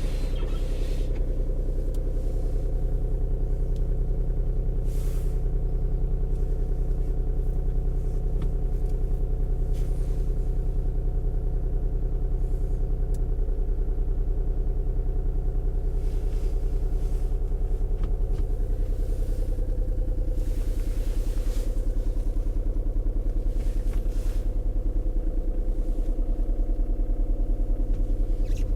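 Skoda Roomster 1.4 TDI's three-cylinder diesel idling steadily shortly after a cold start at about -18 °C.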